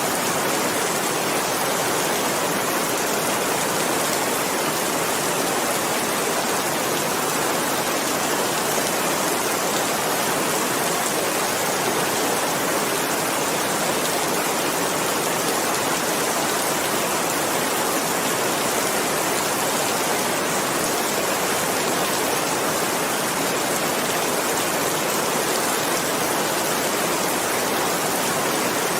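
Steady, even rain hiss with no separate drops or thunder standing out.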